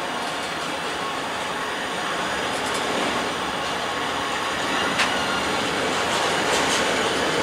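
Freight train wagons rolling past with steady wheel-on-rail noise and a sharp clack about five seconds in.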